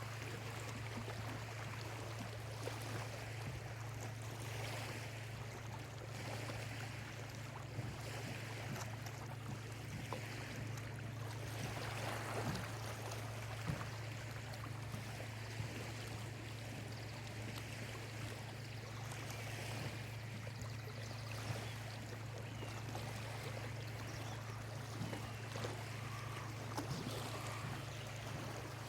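Small lake waves lapping and trickling on the shore at dawn, a steady wash with small splashes, over a steady low hum. A few faint bird calls come through now and then.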